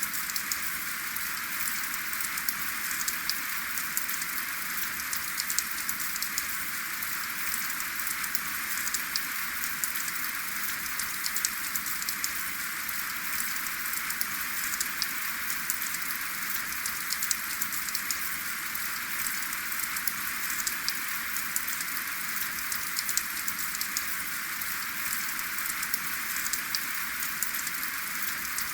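Steady rain falling, a constant hiss with many fine drop ticks and no thunder.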